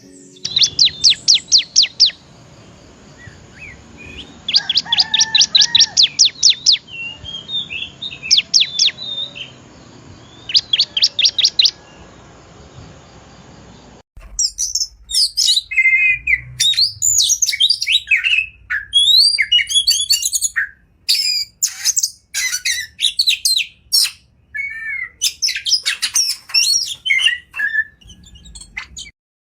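Wild songbirds singing. The first half is a bird repeating bursts of rapid trilled notes, each burst lasting about one to two seconds. About halfway through it cuts to a different, varied song of short sweeping and chattering notes.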